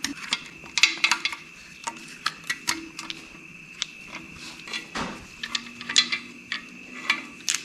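Light metallic clicks and clinks, a dozen or more in quick irregular succession, from hydraulic valve lifters and their lifter trays being worked out of a 6.0L LS engine block by hand.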